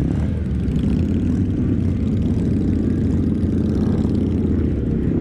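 Motorcycle engine running steadily while riding, a low rumble with road and wind noise.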